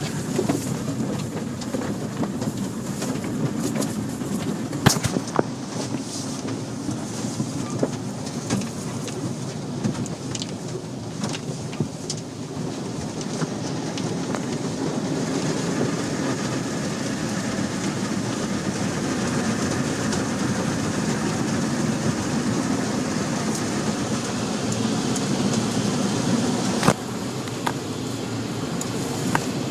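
Automatic car wash running over a car: a steady rush of spraying water and machinery, with a sharp knock about five seconds in and another near the end.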